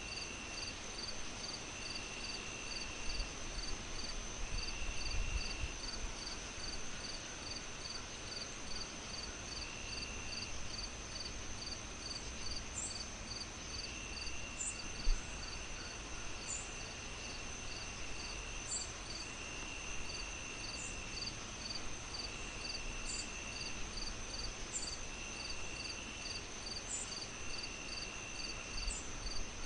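Layered insect chirping: a steady high trill, even chirps about twice a second, and shorter trills about a second long that come and go, joined about halfway by sharper high chirps every two seconds. Underneath runs a low crackling fire, with one louder pop about halfway.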